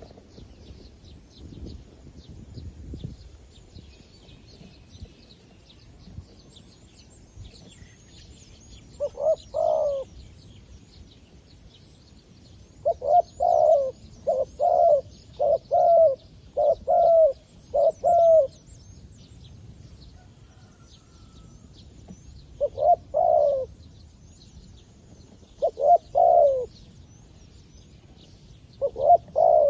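A caged decoy zebra dove calls to draw wild doves, cooing in short groups of quick rolling notes. The groups repeat several times, with a longer run of them in the middle. Faint high twittering sounds underneath.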